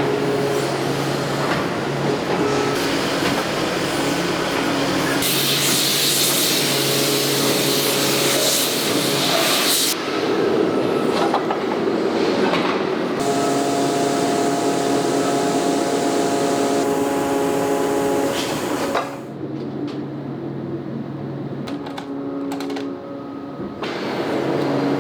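Industrial machinery in a bearing-ring plant running with a steady hum and whine over a noisy clatter. The sound changes abruptly several times, turning quieter for a few seconds near the end before rising again.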